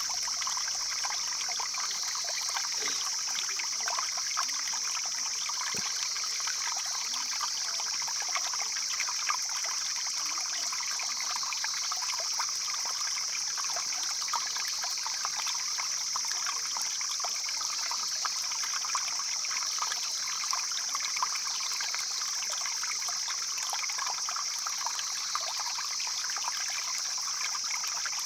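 Stream flowing steadily, water trickling and splashing, with a steady high-pitched hiss over it.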